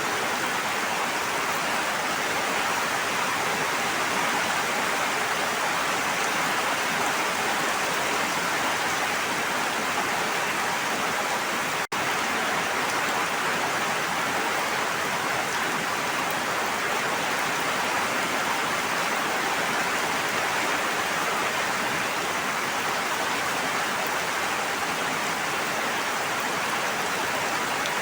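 Steady rushing water, an even dense hiss of rain or flowing water with no pauses, which cuts out for an instant about twelve seconds in.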